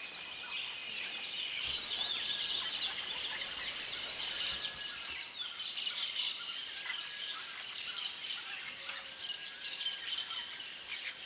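Tropical forest ambience: a steady high insect drone with scattered bird chirps and short calls.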